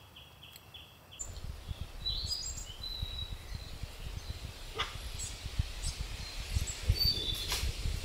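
Forest birds chirping now and then in short high calls, over a low uneven rumble that starts about a second in.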